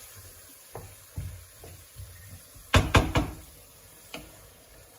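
A few scattered knocks, then a quick double thud about three seconds in, the loudest sound here.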